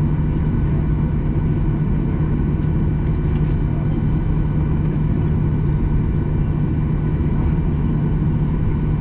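Boeing 737-800's CFM56-7B jet engines running steadily at taxi power, heard inside the cabin as a constant drone with a strong low hum and fainter whining tones above it.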